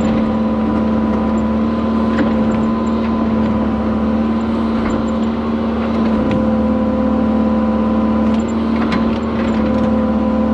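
Diesel engine of the heavy machine pulling a water line plow, running steadily at high revs under load with a constant deep hum. A few faint clicks and knocks sound over it.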